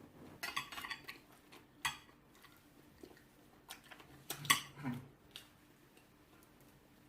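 Light clinks and taps of dishes and cutlery during a meal: a handful of short, scattered knocks over the first five seconds, the loudest about four and a half seconds in.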